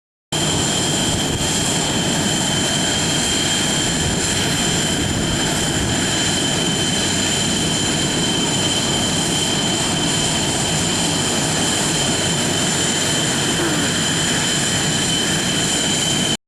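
Aircraft turbine engines running steadily, a loud even rush with a constant high-pitched whine over it; the sound starts and stops abruptly.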